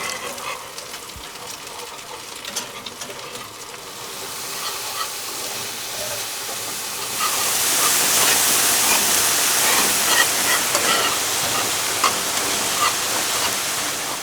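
Food sizzling in a frying pan, growing much louder about halfway through and then holding steady, with scattered light clicks over it.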